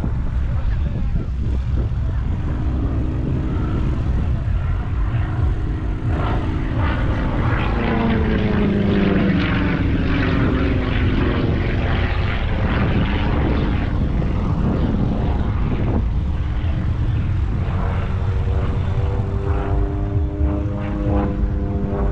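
Propeller aircraft engine droning overhead. Its pitch falls as the plane passes about eight to ten seconds in, and the drone returns, steadier, near the end.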